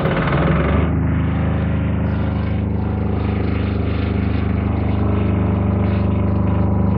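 Wen D6000 diesel generator's single-cylinder engine running, settling into a steady, even run about a second in.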